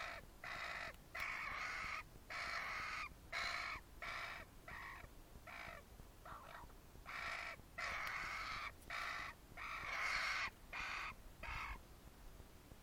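A hand-reared fledgling bird squawking over and over, harsh rasping calls about once a second in irregular runs: insistent begging for food.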